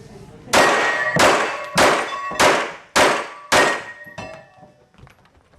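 Six handgun shots fired in quick succession, about 0.6 s apart, each followed by a ringing tail, with steel targets ringing as they are hit.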